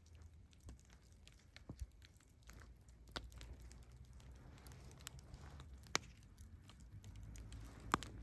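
Campfire crackling: scattered sharp pops and snaps, the two loudest about six and eight seconds in, over a low rumble.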